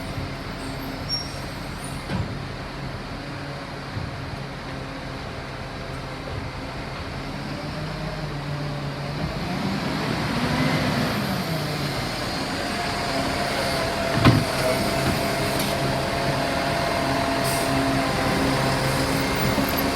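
Garbage truck engine running steadily, its revs rising and falling once about halfway through, with a single sharp knock a few seconds later.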